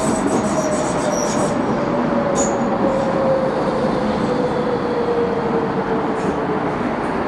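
Docklands Light Railway train running along the track: a steady rumble of wheels on rail under a traction motor whine that falls slowly in pitch as the train slows.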